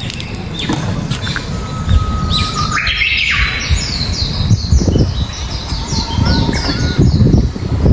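Birds chirping outdoors: a rapid run of short, falling chirps, with a few longer held whistle-like notes about a second to three and a half seconds in, over low rumbling noise.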